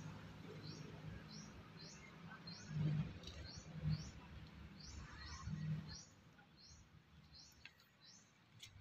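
A small bird chirping repeatedly in short high notes, about two a second, stopping shortly before the end. Under it there is a faint low hum with a few dull bumps.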